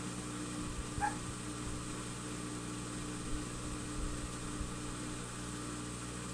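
Whirlpool front-load washing machine running with a steady motor hum, with a few soft low knocks from the drum.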